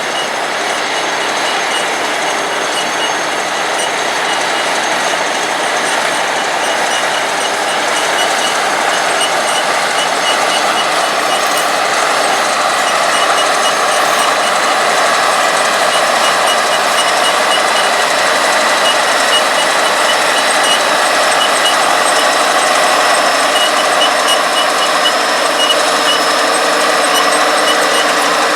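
International Harvester 1256 Turbo tractor's turbocharged six-cylinder diesel running steadily while pulling an IH 430 small square baler working wheat straw, a continuous mechanical drone that grows slowly louder. A faint, rapid high ticking comes and goes over it.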